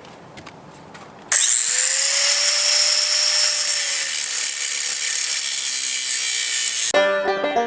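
An angle grinder switches on about a second in, its motor whine rising as it spins up. It then holds a loud, steady grinding hiss as the disc cuts through metal stock. Just before the end this stops abruptly and banjo music begins.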